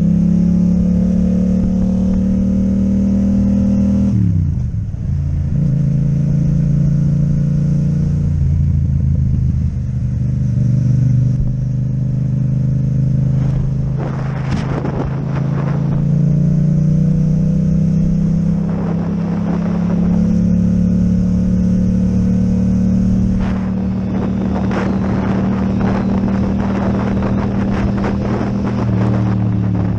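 Yamaha MT-07 parallel-twin engine through an Akrapovic exhaust, running under way. The engine note drops sharply about four seconds in, then picks up and climbs slowly as the bike accelerates. Spells of rough noise come and go over it in the second half.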